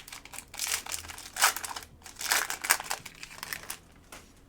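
A trading-card pack's wrapper being torn open and crinkled in a run of irregular rustling bursts that stop shortly before the end.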